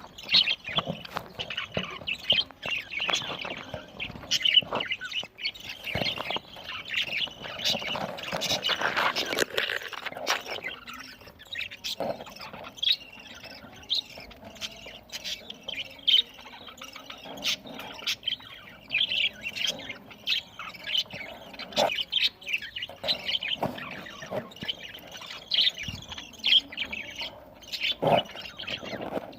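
A group of budgerigars chirping and chattering, many short calls overlapping without a break.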